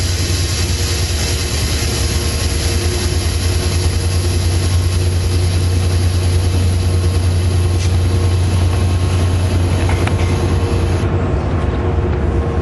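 NJ Transit ALP-45DP dual-mode locomotive's diesel prime mover running with a steady, loud low drone.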